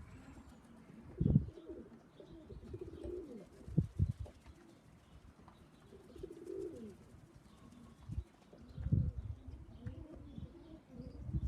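Racing pigeons cooing in a loft, a few drawn-out coos at a time, with several short, low, muffled thumps.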